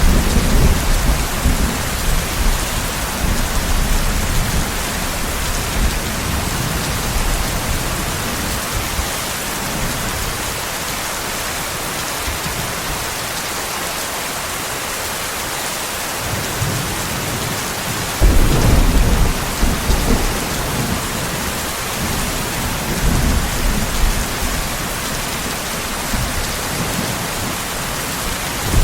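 Steady rain hissing, with low thunder rumbles rolling under it: one fading through the first few seconds, a sharper clap about two-thirds of the way in, and smaller rumbles after it.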